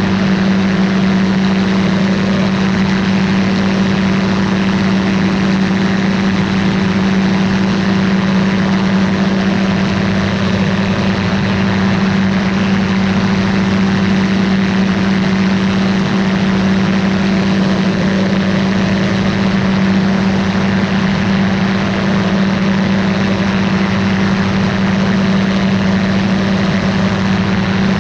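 Ultralight aircraft's piston engine and propeller running loud and steady, holding one even pitch throughout.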